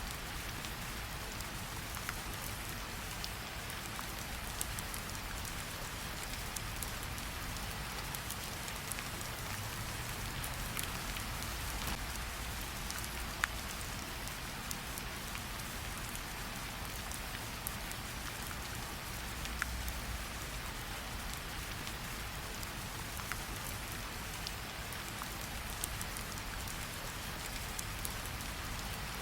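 Steady rain falling, with scattered sharp pops from a crackling campfire over a low rumble.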